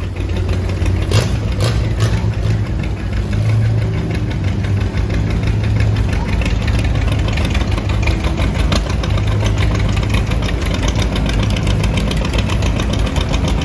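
Old farm tractor engine running steadily with a low, even drone, with a couple of brief clicks or knocks about a second in.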